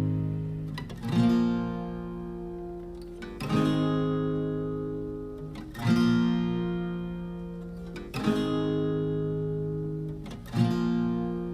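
Background music: slow acoustic guitar chords strummed about every two seconds, each left to ring out and fade before the next.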